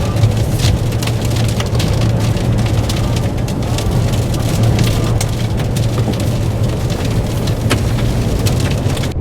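Wind-driven rain pelting the car in dense, irregular ticks over a steady low rumble of strong storm wind.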